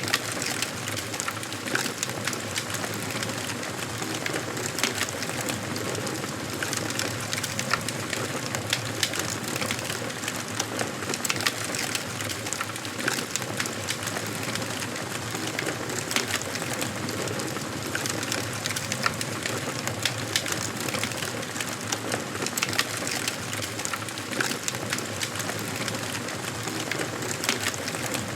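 Wood fire crackling in a fireplace: a steady hiss dotted with many sharp pops and snaps.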